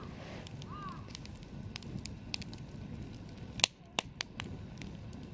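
Campfire crackling with a steady run of small ticks. One loud sharp pop comes about two-thirds of the way through, followed quickly by two smaller snaps.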